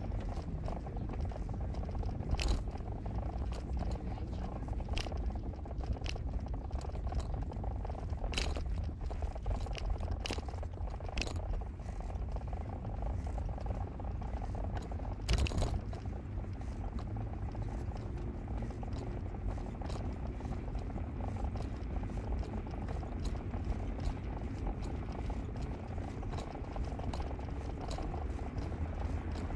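Car running along a street, heard from inside: a steady low rumble of engine and tyres, with sharp clicks and knocks scattered irregularly through it, the loudest about 15 seconds in.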